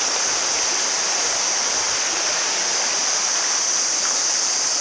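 Flowing water rushing steadily, a constant, even hiss with no breaks.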